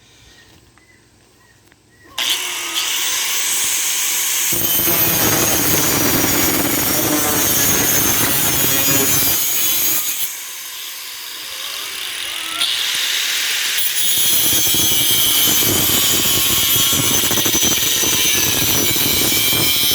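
Electric grinder starting about two seconds in and grinding the steel of an old saw blade: a loud, steady, high-pitched metal grind. It eases off for a few seconds midway, then bites in hard again.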